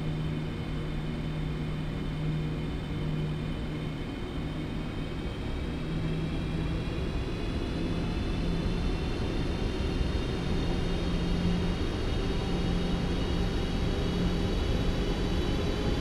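Boeing 777-300 jet engines running during landing: a steady low rumble under a high whine of several tones that slowly rises in pitch, growing a little louder toward the end.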